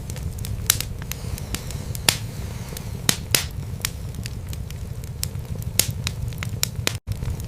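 Wood fire in a fireplace crackling: irregular sharp pops and snaps over a low steady rumble of the flames. The sound drops out for an instant near the end.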